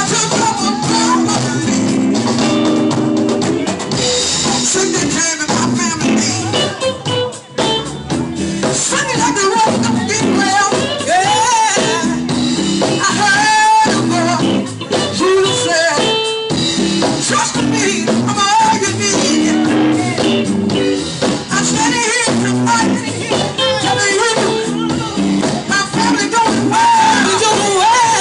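Gospel music with singing over drums and other instruments, played continuously.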